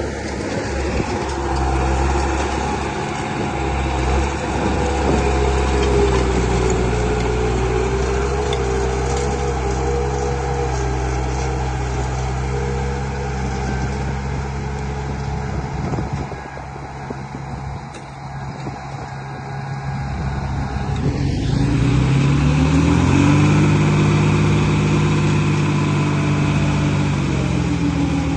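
Engine sound of a radio-controlled construction vehicle running steadily. It eases off in the middle, then revs up in a rising climb a little past two-thirds of the way in and holds at the higher pitch.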